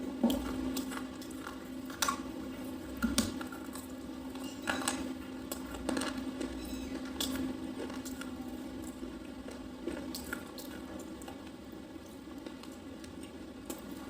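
Person biting and chewing a soft, crunchy red slate pencil: irregular sharp crunches every second or two, the loudest in the first few seconds and fewer later on, over a steady low hum.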